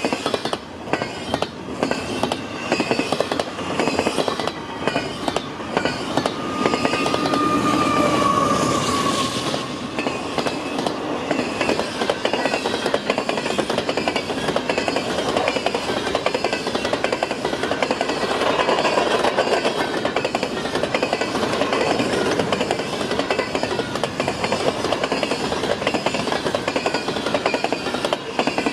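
Freight train cars rolling steadily past, wheels clacking rapidly over the rail joints. About seven seconds in, a high squeal sets in and falls slightly in pitch before fading by about nine and a half seconds.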